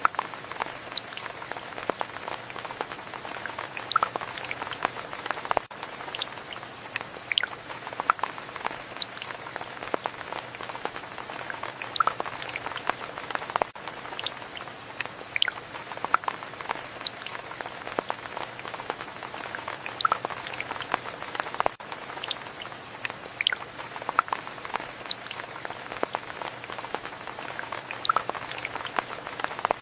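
Steady rain, with many individual drops landing close by in sharp, irregular taps over a constant hiss.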